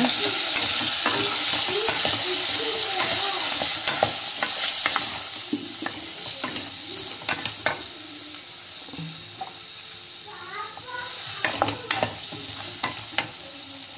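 Spiced raw banana pieces sizzling in hot oil in a kadai while a wooden spatula stirs and turns them, with clicks of the spatula against the pan. The sizzle is loudest for the first few seconds and then dies down, and a few sharper knocks come near the end.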